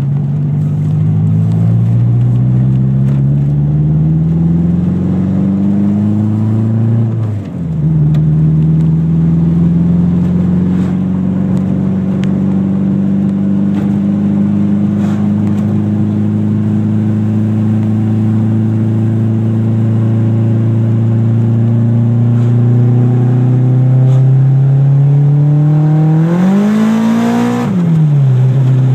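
Eagle Talon TSi's turbocharged 4G63 four-cylinder, fitted with a big Precision turbo, accelerating hard: the revs climb and drop sharply at a gear change about seven seconds in. They then climb slowly for a long stretch, rise steeply near the end and fall away as the throttle is lifted or the next gear is taken.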